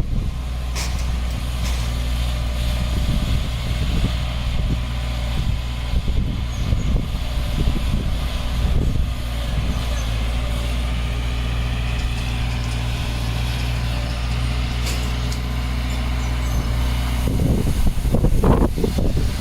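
Heavy diesel engine of earthmoving equipment running steadily at a low pitch, with a louder, noisier stretch near the end.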